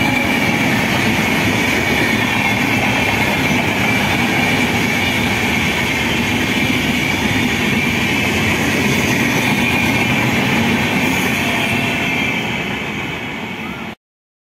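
Indian Railways AC chair car coaches running past on the track, a steady rush and rumble of wheels on rail. It tapers off in the last couple of seconds and then cuts off abruptly.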